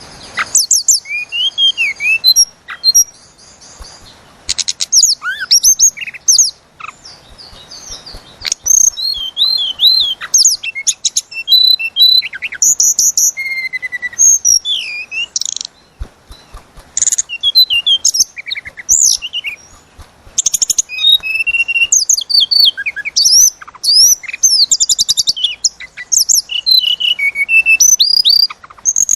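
Tledekan gunung songbird singing a fast, long-running song of high whistled notes and trills, with brief pauses between phrases.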